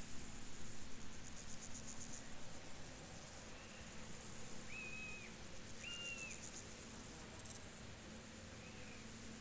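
Crickets trilling in rapid high-pitched pulses that come and go in bouts of a second or two, over a low steady background hum. A few short, clear whistled notes, probably a bird, sound around the middle.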